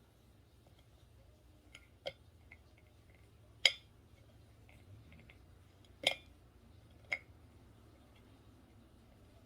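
Tableware clinking: four sharp, separate clinks with a light ring. The loudest comes near the middle.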